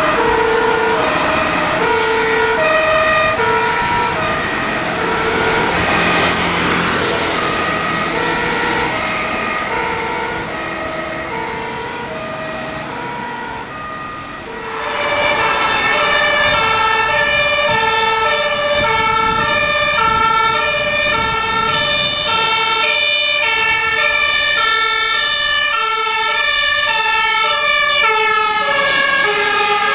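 Fire engines' two-tone sirens (German Martinshorn) sounding on an emergency run, the tones alternating steadily. About halfway through, the first horn fades a little and a second, louder horn takes over.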